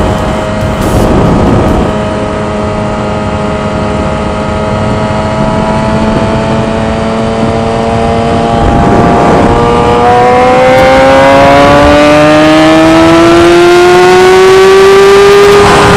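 Motorcycle engine under hard acceleration, with wind noise: its note holds steady for several seconds, then climbs steadily in pitch through the second half as the revs rise.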